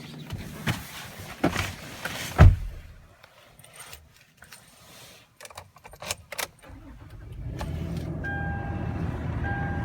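A few clicks and a heavy thump, keys jangling, then the Toyota 4Runner's 4.0-litre V6 starts about seven and a half seconds in and idles, while a dashboard chime beeps about once every second and a bit.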